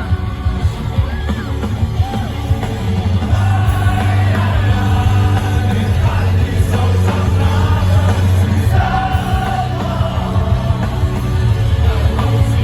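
Loud live rock music from a band on stage: heavy bass under sung vocals, with yelling over it.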